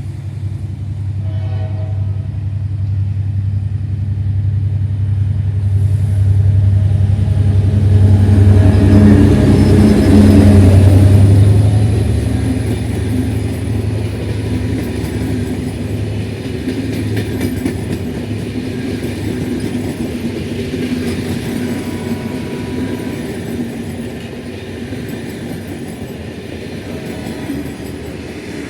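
General Electric diesel-electric locomotive passing with its train: the engine's low steady drone builds to its loudest about ten seconds in, then gives way to the rolling rumble and faint clicking of the coaches as it fades. A short horn note sounds about a second and a half in.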